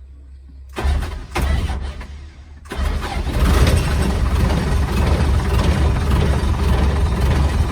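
Old truck's engine being started: the starter cranks unevenly for about two seconds, then the engine catches and runs steadily with a deep rumble.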